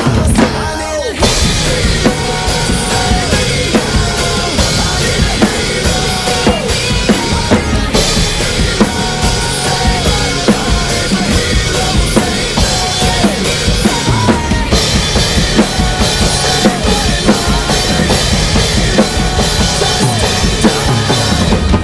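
Rock drum kit played hard with kick drum, snare and cymbals over the recorded rock song it is covering, picked up by a single room mic.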